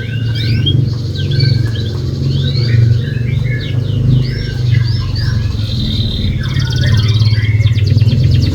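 Domestic canary singing a fast unbroken run of chirps and whistled glides, with buzzy rolling trills about two-thirds of the way in: a canary lure song of the kind played to prompt a quiet canary to sing. A steady low hum runs underneath.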